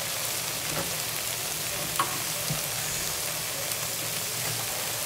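Chicken curry sizzling steadily in a pot that has cooked nearly dry, the masala stuck and catching on the bottom. There is one light tap about two seconds in.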